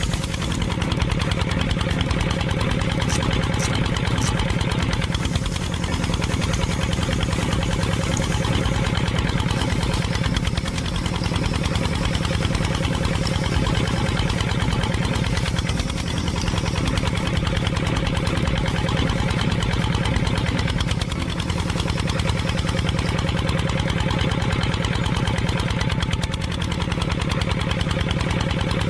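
An engine idling steadily with a fast, even chugging beat, dipping slightly in loudness about every five seconds.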